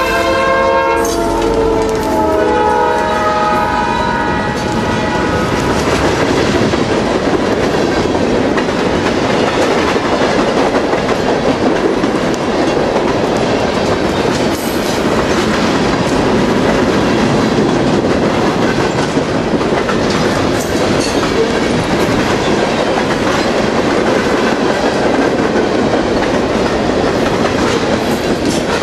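A passing train: the locomotive's multi-chime air horn sounds and drops in pitch as it goes by, fading out a few seconds in. Then the wheels roll and clack steadily over the rail joints as the cars pass.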